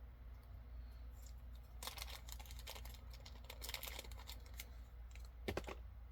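Plastic packaging rustling and crinkling as it is handled and opened, in a run of crackly bursts from about two to four and a half seconds in, then a single sharp click near the end. A low steady hum lies underneath.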